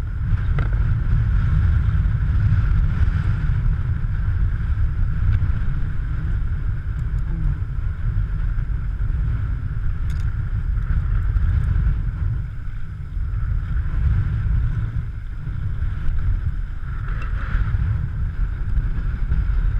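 Strong storm wind buffeting the microphone, a steady loud low rumble with little change.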